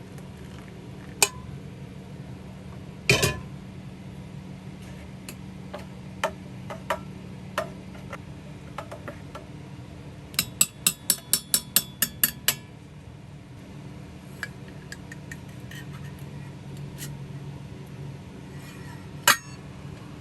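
Sharp clicks and clinks scattered over a steady low hum, including a quick run of about ten clicks a little past halfway and a loud single click near the end.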